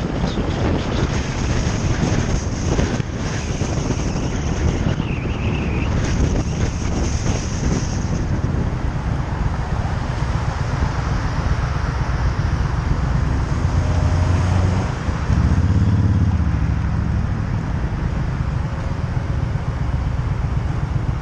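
Motorcycle engine running while riding, with wind noise on the microphone. The engine note swells for a couple of seconds about fourteen seconds in.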